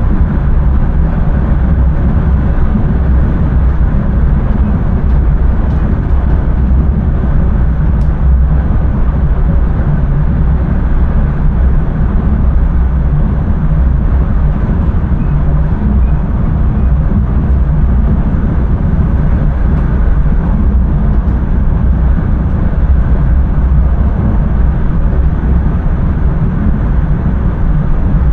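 Steady rumble and running noise of a Dutch intercity passenger train travelling along the line, heard from inside the driver's cab.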